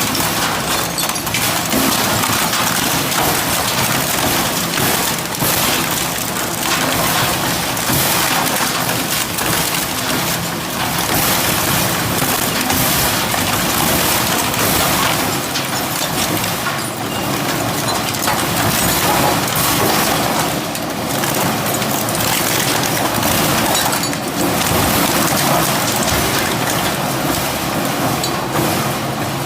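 Industrial metal shredder tearing through scrap metal: a loud, dense, continuous crunching and crackling with irregular knocks and cracks throughout.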